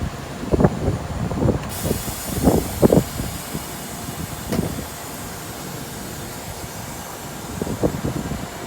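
Typhoon wind gusting against the microphone in irregular buffeting blasts over a steady rushing hiss, the gusts easing after about five seconds.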